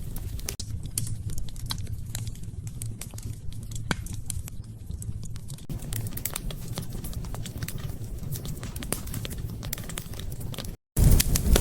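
Wood fire crackling in a fireplace: scattered sharp pops and ticks over a low rumble of flames. Near the end the sound cuts out for a moment and comes back louder and denser.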